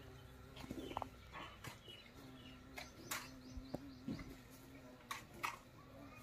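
Birds chirping: short, separate calls scattered irregularly, over a steady low hum.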